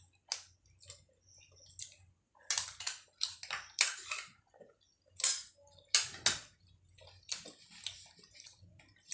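Close-up eating sounds: wet chewing of luchi and ghugni in short, irregular bursts, loudest in the middle few seconds.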